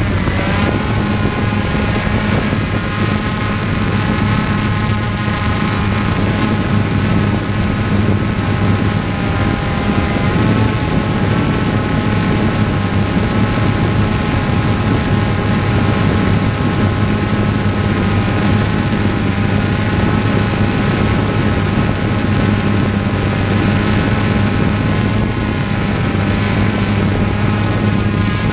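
Propeller aircraft running steadily in flight: a constant low hum under a whine of several pitches that waver slightly.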